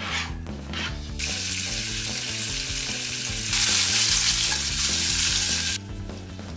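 Sliced sausage frying in oil in a nonstick frying pan: a steady sizzle starting about a second in, growing louder for a couple of seconds while the pan is shaken, then cutting off suddenly near the end. Background music plays throughout.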